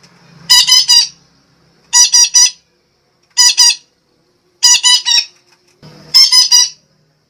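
Sumatran betet parakeet giving harsh, repeated squawking calls in five quick bursts of three or four notes each, with short pauses between: the lure call used to attract other betet.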